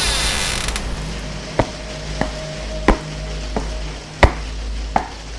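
A brief hiss, then six sharp knocks or clicks about two-thirds of a second apart over a steady low rumble.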